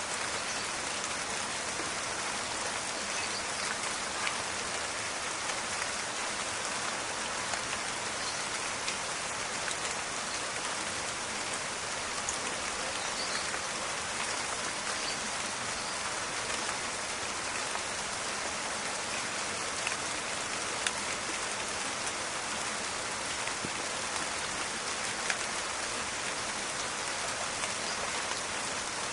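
Steady rain falling, an even hiss with scattered individual drops ticking sharply above it.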